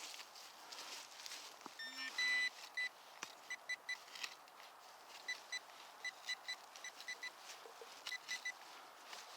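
Nokta Makro Simplex Plus metal detector sounding off as its coil is swept over the ground: a short low tone about two seconds in, then repeated short high beeps in pairs and triplets.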